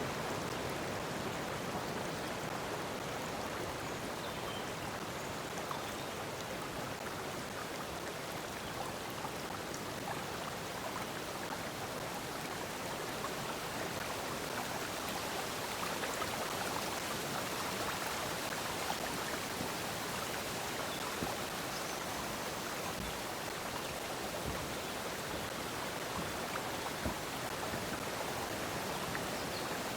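Flowing water, a steady, even rush of a stream.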